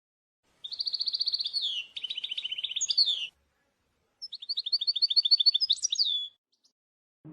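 Canary singing: two phrases of rapid trills, each a quick run of repeated high notes that switches to a new note type partway through. The phrases are separated by a pause of about a second.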